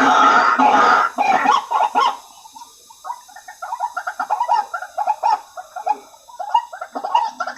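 White-breasted waterhen (ruak-ruak) calling. A loud burst of harsh calls fills the first two seconds, then a quicker run of short repeated notes follows, several a second.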